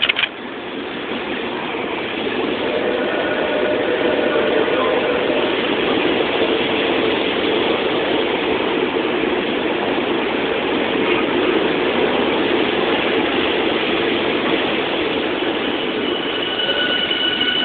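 Tokyu 5050 series electric train passing through a station without stopping: a loud, steady rumble and clatter of wheels on rail that builds over the first few seconds and then holds. A short sharp knock comes at the very start, and faint high steady tones appear near the end.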